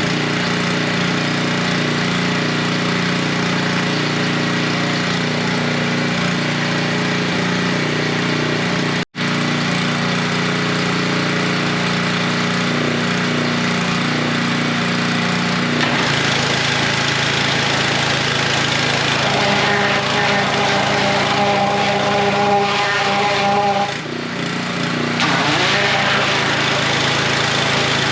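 Small gasoline engine of a pressure washer running steadily, with the hiss of the water spray. The sound cuts out briefly about nine seconds in, and shifts in pitch around the middle and again near the end.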